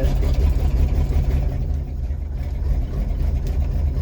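1951 GMC Van Pelt fire engine's engine running just after a cold start, held at a little throttle; a steady low rumble that dips slightly about two seconds in.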